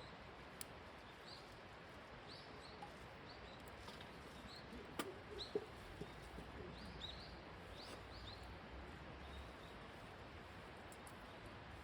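Small birds chirping faintly, with short high chirps scattered throughout. There are a few sharp clicks as well, the loudest about five seconds in.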